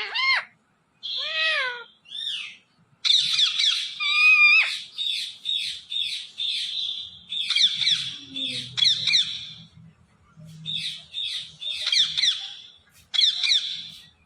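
Pet parrot calling: a few whistled, gliding calls in the first two seconds, then a long run of rapid, harsh squawks and chirps with short pauses between bursts.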